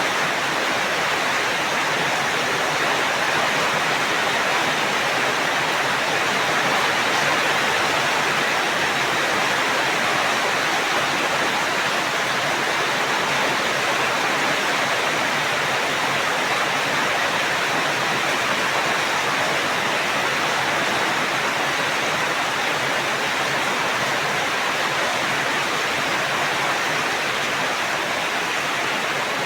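Steady heavy rain falling, a constant even hiss with no distinct drops or thunder.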